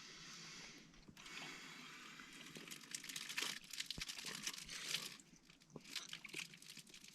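Faint rustling and crinkling handling noise, with small irregular crackles and crunches.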